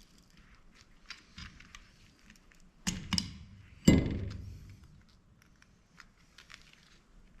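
Parts of a Pelco dome security camera clicking and knocking as it is taken apart by hand: light ticks and rattles, then two sharp knocks close together about three seconds in and a louder knock a second later with a short ringing tail.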